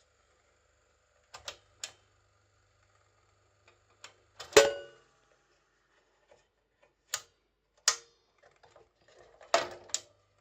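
Sharp clicks and metallic clanks at irregular intervals, about eight in all, from the 1971 Sanyo EK-25KR ventilation fan being handled or operated. The loudest clank, about four and a half seconds in, rings briefly. A faint low hum comes in with the first click.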